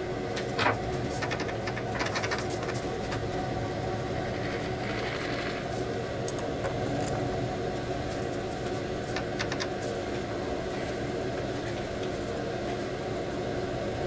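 A workshop machine's motor hums steadily, with a few light clicks and taps on metal, the loudest about a second in and another cluster about two seconds in, as the workpiece is centred under a dial indicator.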